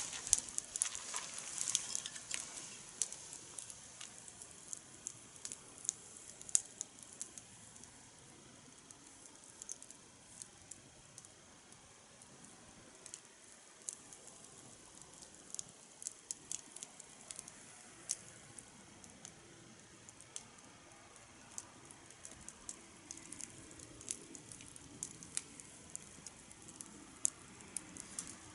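Wood fire burning in a fire-pit stand, crackling with scattered sharp pops over a soft hiss. A louder hiss at the very start dies down within a couple of seconds.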